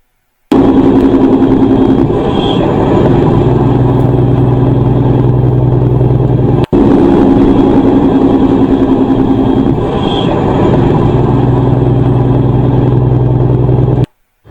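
A motor vehicle engine running loud and steady, its pitch settling lower after a second or two. It breaks off briefly about six and a half seconds in and then the same stretch plays again, stopping abruptly near the end.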